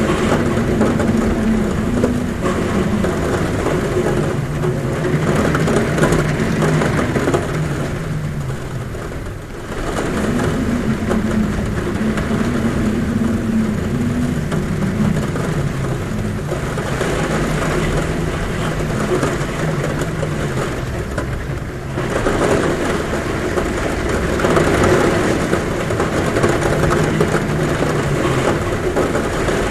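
Heavy rain drumming steadily on a roof, with wind humming at a window in low wavering tones that swell and fade every few seconds.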